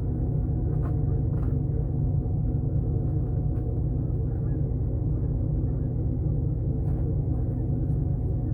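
Pickup truck engine idling steadily, with a few faint clicks over it.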